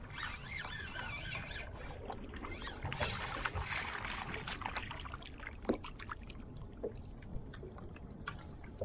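Water sloshing and splashing around a kayak, with scattered sharp clicks and knocks on the hull, over a low rumble of wind on the microphone. A splashy rush comes about three seconds in. Birds call in the first second or two.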